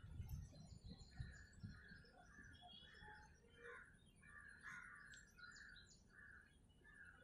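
Faint birds calling: a steady run of short repeated notes, two or three a second, with higher thin chirps over them, and a few low rumbles in the first second.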